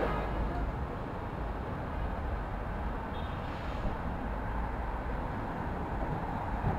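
City street ambience: a steady low rumble of traffic and general urban hum, without distinct events.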